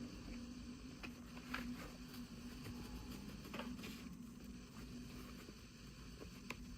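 Faint handling sounds from unboxing toy packaging: a few small, sharp clicks and light rustles, spaced irregularly, over a low steady hum.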